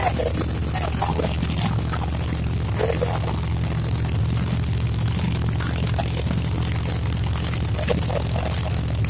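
Drag race car engine running steadily, a low even rumble, with crowd voices over it.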